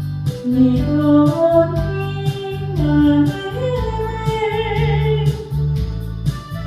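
Trot song sung over a karaoke backing track with a steady beat, bass and guitar. The voice climbs through a phrase and then holds long notes with vibrato.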